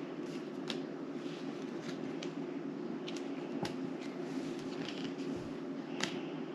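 Playing cards being handled and laid down on a table: a handful of light, sharp snaps, the strongest near the end, over a steady low room hum.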